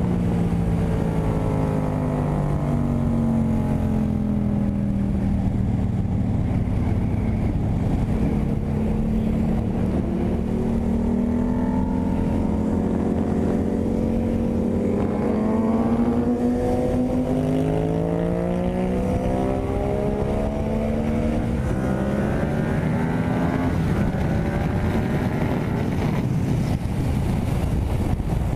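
Yamaha MT-07's parallel-twin engine running at highway speed, its pitch rising and falling with the throttle, with a drop in pitch just past halfway as it shifts from fourth to fifth gear. A steady rush of wind and road noise runs under it.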